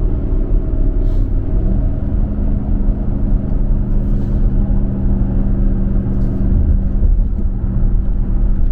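Steady road and engine drone of a car cruising on the highway, heard from inside the cabin: a continuous low rumble with a steady hum.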